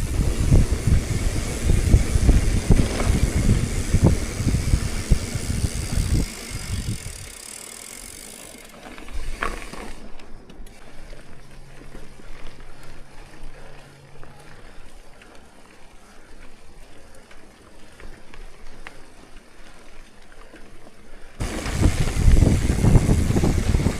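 Wind buffeting the microphone with rumble from a moving ride. It drops to a much quieter stretch about seven seconds in and picks up again a few seconds before the end.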